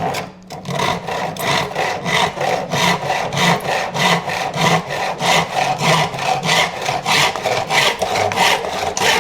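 Handsaw cutting wood with steady back-and-forth strokes, about three or four a second.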